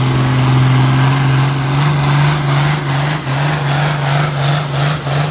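A pulling vehicle's engine running hard at high, steady revs under load. In the second half its sound pulses about three times a second.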